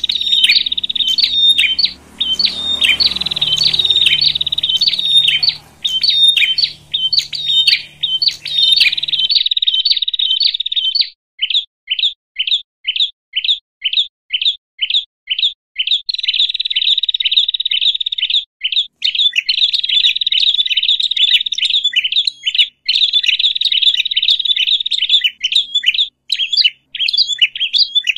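Small birds, prenjak, giving agitated, noisy calls: fast, dense series of sharp chips. About eleven seconds in they break into separate chips about three a second, then run back into dense chattering from about sixteen seconds.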